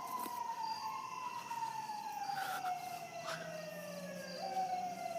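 Faint emergency-vehicle siren wailing: its pitch rises quickly, falls slowly over about four seconds, then jumps up again near the end and starts another slow fall.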